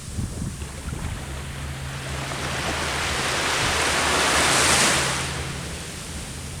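Sea waves washing onto the shore: one wave swells up, is loudest about four to five seconds in, then draws back, over a faint low hum.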